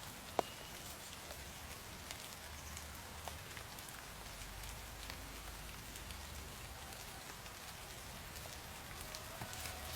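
Light rain pattering: a steady faint hiss with scattered small drop ticks, and one sharper click about half a second in.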